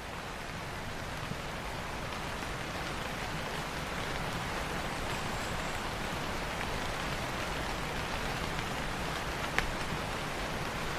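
Steady rain, growing slightly louder, with a few sharp pops, the loudest about a second and a half before the end.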